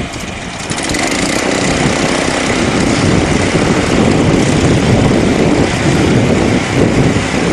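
Small garden-tractor engines running hard, growing louder about a second in and then holding steady.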